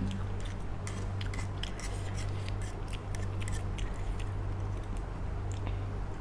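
Close-up mouth sounds of someone chewing soft instant noodles: frequent wet clicks and smacks in an uneven rhythm, over a steady low hum.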